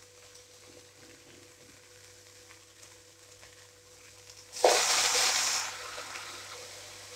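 Yogurt poured into a hot pot of fried chicken and tomatoes sizzles suddenly about four and a half seconds in, loud for about a second and then dying away.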